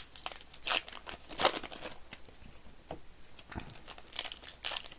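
Trading-card pack wrappers being handled and torn open, in short crinkling, tearing rustles that come in irregular bursts.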